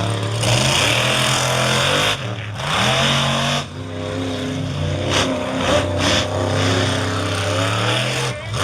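Monster truck engines revving hard at full throttle during a side-by-side race. The engine pitch steps and glides, dropping and climbing again about two seconds in and again at about three and a half seconds.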